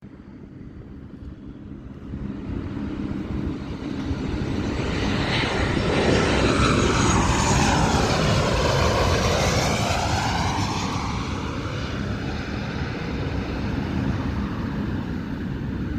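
Fixed-wing aircraft flying past. Its engine noise builds to a peak in the middle, and the tone sweeps down and back up as it passes, then it eases off to a steady rumble.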